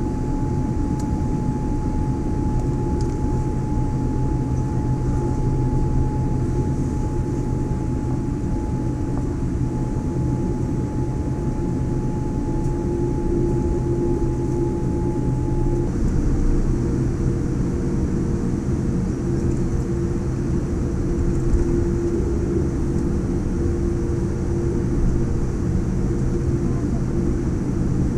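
Boeing 787-9 cabin noise: a steady rumble of engines and airframe with several constant hum tones, as heard from inside the cabin. About halfway through, one steady tone drops out and a lower one takes over.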